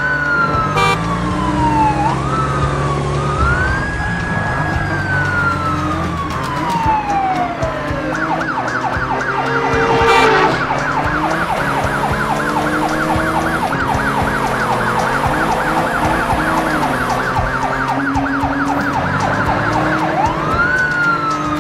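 Cartoon police-car siren: a slow rising and falling wail for about eight seconds, then a fast yelp, with a new wail rising near the end. A brief loud burst of noise comes about ten seconds in.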